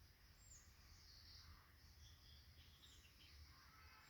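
Near silence with faint high-pitched bird chirps now and then.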